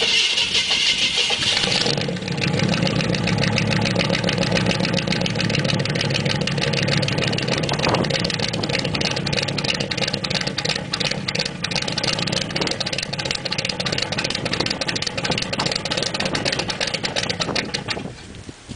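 1970 Ford F-100's 390 FE V8 with straight pipes on a cold start at about 30°F: a higher-pitched noise for the first two seconds, then the engine catches and settles into a steady idle with a fast exhaust pulse. The sound drops away shortly before the end.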